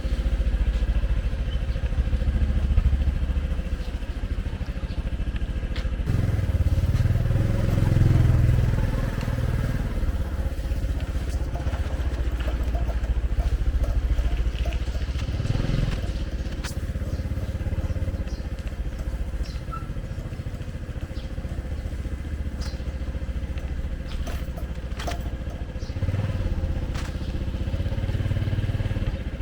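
Motorbike engine running in street traffic, its note swelling up a few times, with scattered light clicks and clatter.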